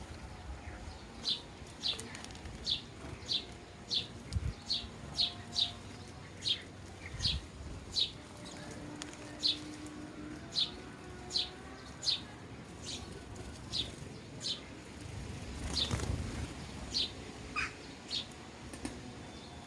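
Sparrows chirping: single short, high chirps repeated about once or twice a second, with a few soft low thumps in between.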